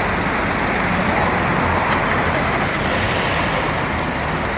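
Audi A8 L engine running steadily after its oil separator has been replaced, with no high-pitched whistle left: the fault is cured.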